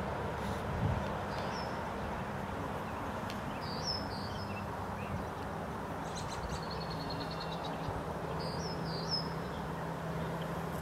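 Outdoor background noise with a low steady hum, and a small bird repeating a short, high two-note chirp every few seconds, with a quick trill about two-thirds of the way through.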